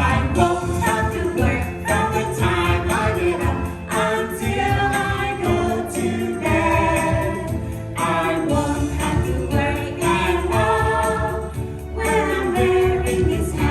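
A song with several voices singing together over backing music, with jingling bells in the accompaniment.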